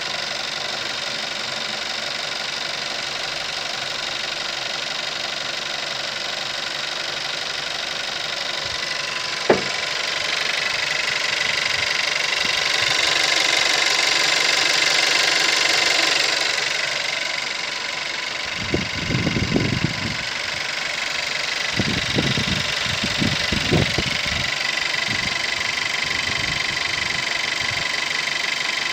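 2017 VW Golf's 1.4-litre turbocharged four-cylinder petrol engine idling steadily, heard close up under the open bonnet. It grows louder and brighter for a few seconds around the middle as the microphone comes close to the engine. A single sharp click comes about a third of the way in, and irregular low rumbling thuds come in the second half.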